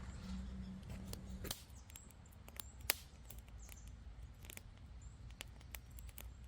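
Wood campfire crackling: irregular sharp pops and snaps, one louder pop about three seconds in. A low hum runs underneath and stops about a second and a half in.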